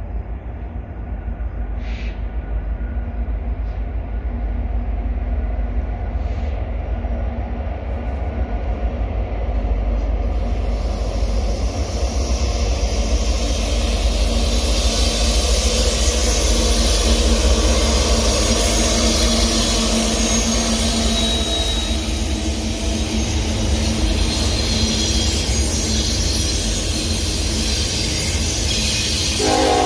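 Union Pacific diesel-hauled intermodal freight train approaching and passing close by: a steady low rumble, joined about a third of the way in by a growing noise of steel wheels on rail. The noise is loudest around the middle as the locomotives and double-stack container cars go by.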